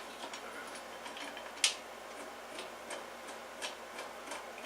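Faint, scattered metal clicks and ticks from hand tools working on the torque converter's mounting bolts, with one sharper click about a second and a half in.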